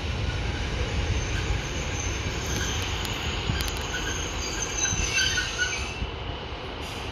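A train running past on the rails, with a steady rumble and short high-pitched wheel squeals that come and go in the middle.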